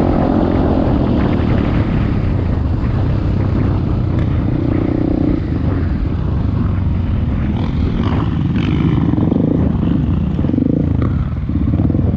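Dirt bike engine running under throttle while riding off-road, the engine note rising and falling as it is ridden.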